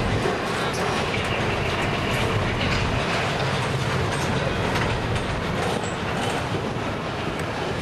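Double-stack container well cars of a freight train rolling past at close range: a steady rumble with wheels clacking over the rail joints.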